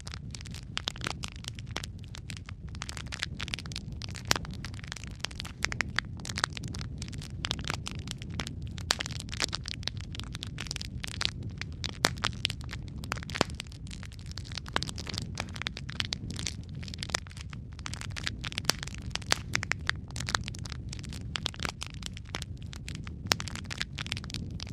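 Wood fire crackling in a fireplace: a dense, irregular run of small crackles and a few sharper pops over a steady low rumble of the flames.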